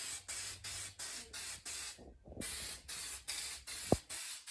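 Aerosol spray can of black gloss paint hissing in quick short bursts, about two or three a second, dusting a light guide coat over bare-metal bodywork so that the high and low spots show up when it is blocked. A short sharp knock near the end.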